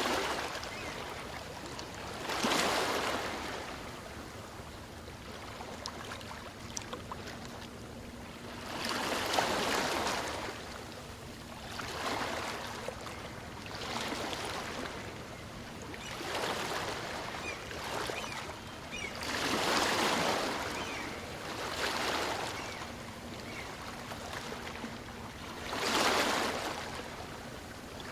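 Small waves of a calm sea breaking and washing up a sandy beach, each surge swelling and fading every two to three seconds.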